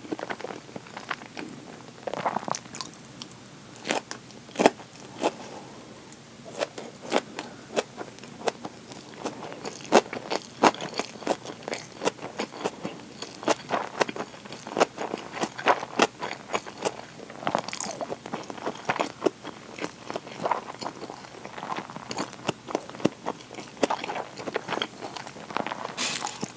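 A person chewing a mouthful of thick sushi roll, close to the microphone, with many quick, wet mouth clicks at an irregular pace.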